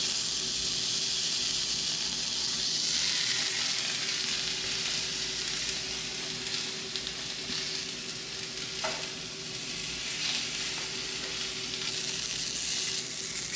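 Grated coconut, shallots and curry leaves sizzling in a heavy black kadai as they are dry-roasted for a roasted-coconut curry paste, stirred with a spatula; a steady sizzle.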